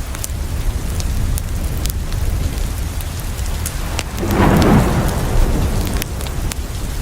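Steady heavy rain falling, with scattered sharp ticks of drops. About four seconds in a roll of thunder swells up for about a second and dies away.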